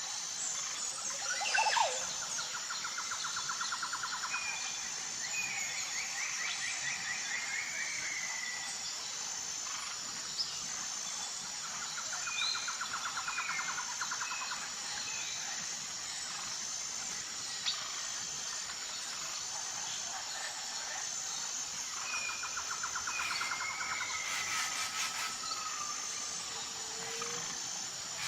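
Tropical forest ambience: several birds singing, one repeating a fast trilled phrase about every ten seconds among shorter chirps, over a steady high insect buzz.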